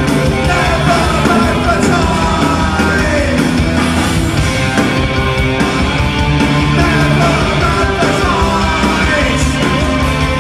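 Live ska-punk band playing loudly, with sung, half-shouted vocals over guitars, bass and drums.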